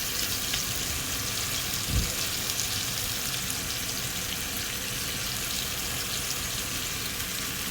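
Chicken pieces with carrots and green beans sizzling in oil in a frying pan: a steady hiss with small crackles. A single low thump about two seconds in.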